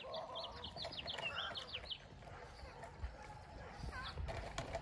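A songbird singing a quick run of short, high chirps for the first couple of seconds, with two more notes about four seconds in, over faint low thumps and rustling.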